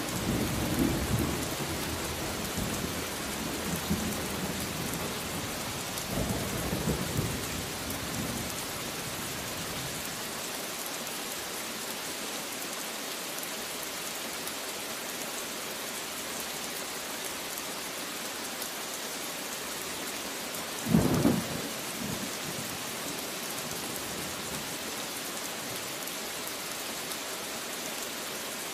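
Steady heavy rain with thunder rumbling over the first eight seconds or so, then one short, sharp thunderclap about twenty-one seconds in, the loudest moment.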